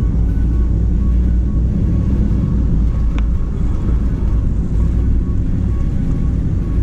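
A car driving, a steady low rumble of engine and road noise, with a short click about three seconds in.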